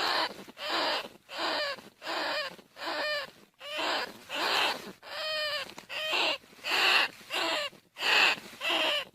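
Bandicoot rat calls: a run of short, harsh squeals repeated about twice a second, several of them falling in pitch.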